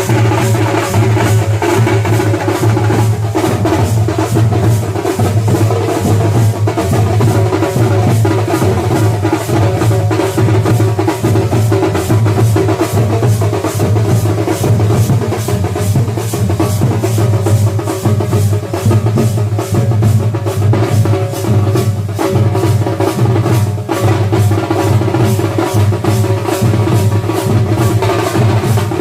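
A drum ensemble playing loud, fast, unbroken rhythmic beating, with a heavy low drum throb under rapid strokes.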